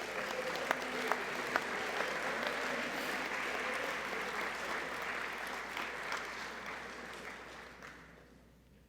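Audience applauding, with a few sharp individual claps standing out early on. The applause holds steady, then dies away over the last couple of seconds.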